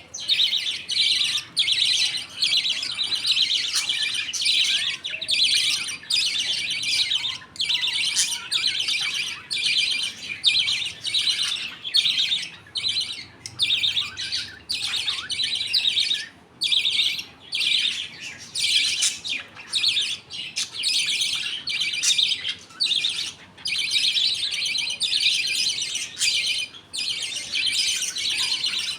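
A colony of budgerigars chattering and warbling together in a dense, nearly continuous stream of high chirps, broken only by brief pauses.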